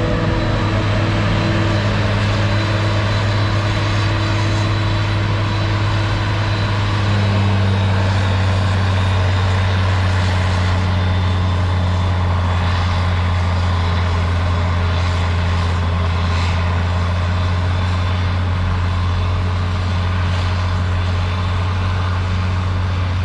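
A farm vehicle's engine running steadily with a constant low hum, its pitch shifting slightly about seven seconds in.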